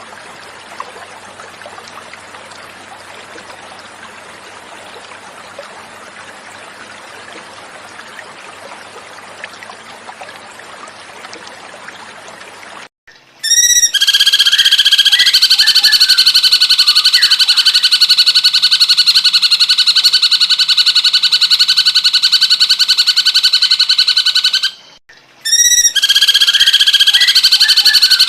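Running water trickles steadily for about thirteen seconds. It cuts out, and a loud, fast, high-pitched trilling call of a cucak cungkok starts. The call stops briefly about three seconds before the end and then starts again.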